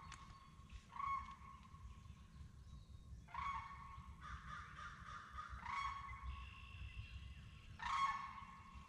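Large birds calling: five loud, rattly honking calls a second to a few seconds apart, each carrying on as a drawn-out ringing note.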